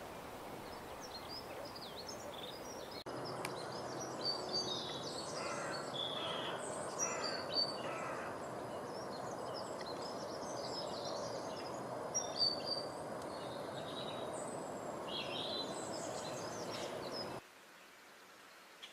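Several small birds chirping and calling in quick, overlapping high notes over a steady background hiss; the sound stops abruptly near the end.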